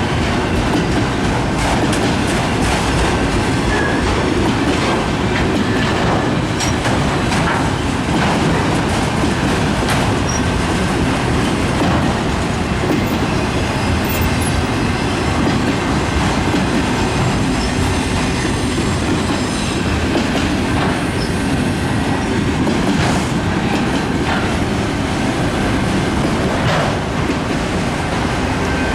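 Freight train cars rolling past, loud and steady: a continuous rumble of steel wheels on rail, broken by irregular clicks and clacks as the wheels cross rail joints, with a faint thin wheel squeal.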